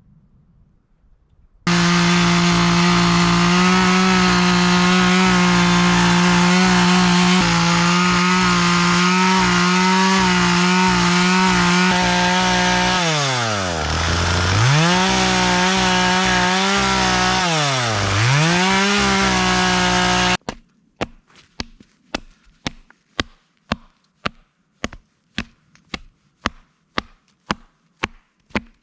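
Two-stroke chainsaw running at high revs, its pitch dipping deeply and recovering twice before it cuts off suddenly. Then sharp, regular knocks follow, about two a second.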